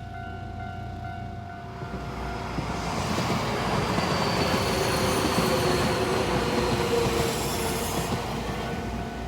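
A Nankai Koya Line train passing over a level crossing: it builds from about two seconds in, is loudest through the middle with a thin high whine over the wheel noise, and fades near the end. The crossing's warning bell rings steadily at the start.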